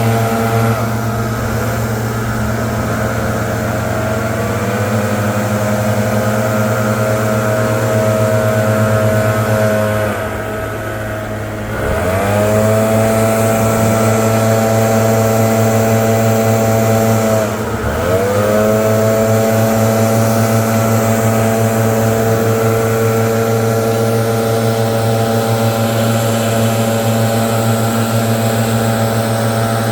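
Gas-powered leaf blower engine running at high throttle, blowing leaves. The throttle is eased off twice, about ten seconds in and again near eighteen seconds, and each time the engine revs straight back up.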